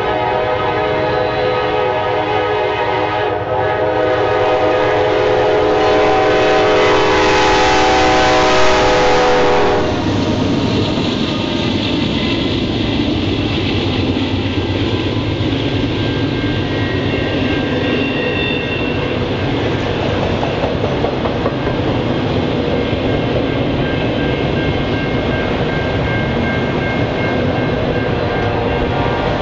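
Norfolk Southern freight train's locomotive air horn sounding a long multi-note chord as the train climbs the grade toward the listener, growing louder, then cutting off abruptly about ten seconds in. After that the train rolls past with a steady rumble and clatter of wheels on rail.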